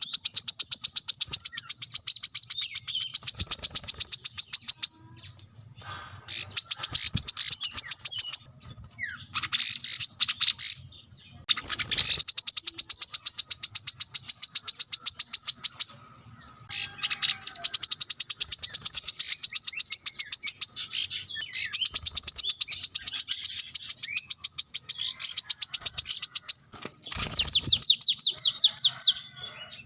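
A sunbird (kolibri kelapa) singing loudly in long, rapid, high-pitched twittering trills several seconds long, with short pauses between phrases.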